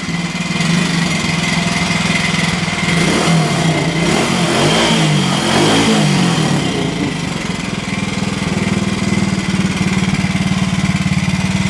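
1968 Ducati 250 bevel-drive single-cylinder engine running soon after a cold start. The throttle is blipped up and down several times about halfway through, then the engine settles back to a steady idle.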